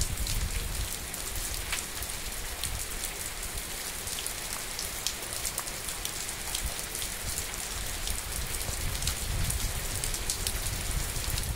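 Rain falling on wet ground and a shallow puddle: a steady hiss with many separate drop ticks, over a low rumble.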